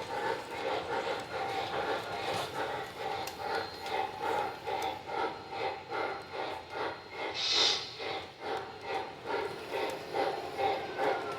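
A passenger excursion train rolling past, its wheels and running gear beating in a steady rhythm about two to three times a second under a lasting metallic hum. A short hiss comes about seven and a half seconds in.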